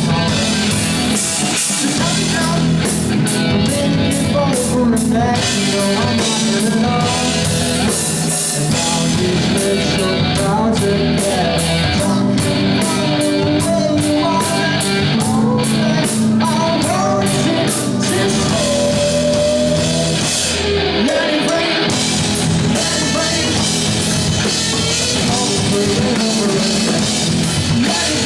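Rock band playing live: electric guitar over a steady drum kit beat with cymbals.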